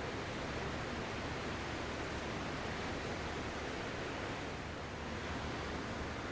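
Ocean surf as a steady, even wash of noise, with no single wave breaking out of it.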